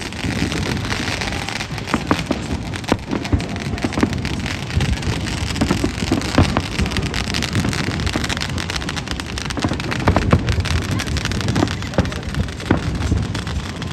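Fireworks going off: a dense, continuous crackling with many sharp cracks and low thuds mixed in.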